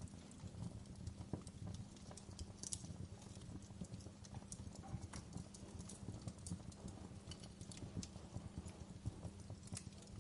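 Fireplace wood fire crackling: a steady low rumble from the flames with frequent, irregular small pops and snaps.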